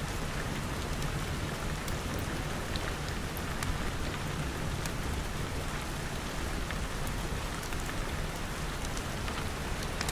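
Steady rain falling on a surface, with scattered sharp crackles and pops from a wood fire.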